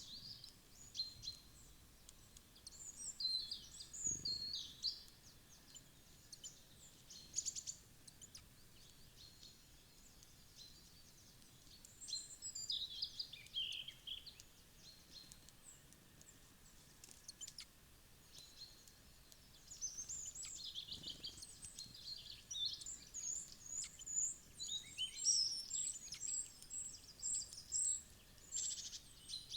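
Small songbirds calling with short, high chirps in several bursts, the busiest stretch in the last third, separated by quieter gaps of faint background noise.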